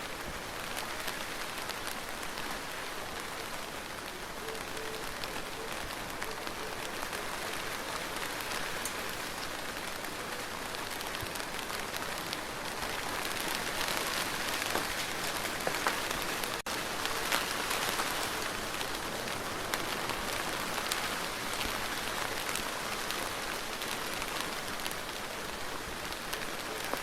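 Steady rain falling, with many fine individual drop ticks. It grows somewhat heavier about halfway through.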